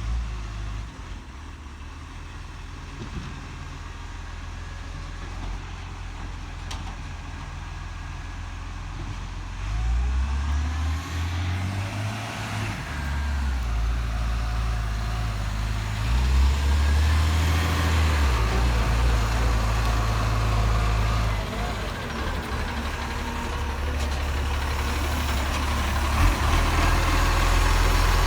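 Garbage truck engine running, growing louder about ten seconds in, its pitch rising and falling as it revs.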